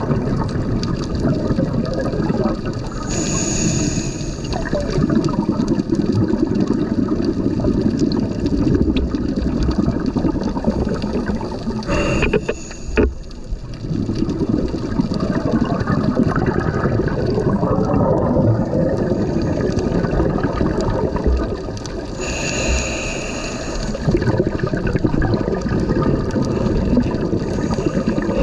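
Turbulent, churning water that rushes and gurgles steadily, with short hissing bursts of bubbles about four times.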